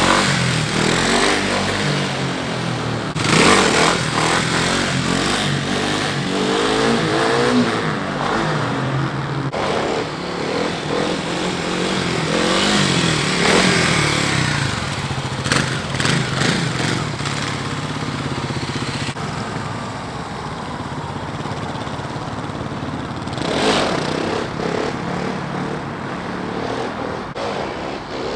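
Kawasaki KLX 300 dual-sport motorcycle's single-cylinder engine revving hard and easing off again and again as the bike is ridden through first- and second-gear wheelies. The pitch climbs and drops several times, with short loud surges about three seconds in and again near the end.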